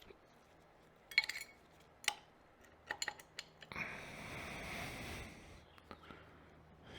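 Metal fork parts and tools clinking and tapping a few times, then about two seconds of soft hiss-like noise.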